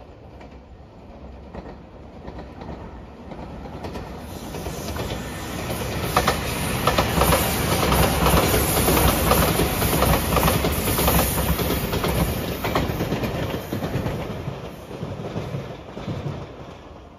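JR Shikoku 8000 series limited express electric train passing at speed, its wheels clicking over the rail joints. The sound builds a few seconds in, is loudest midway, and fades away near the end.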